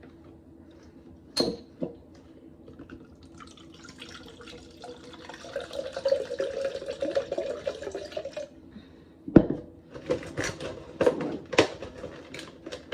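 Coconut water poured out in a steady stream for about four seconds, starting a few seconds in. A sharp knock comes before it, and several sharp knocks and clatters follow it.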